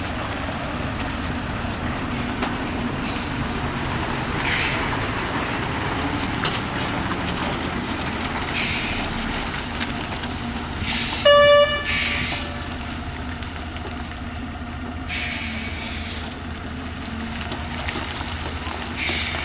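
Heavy truck engine running steadily under load while climbing. A single horn blast of about half a second sounds about halfway through and is the loudest thing heard, and short hissing bursts come and go.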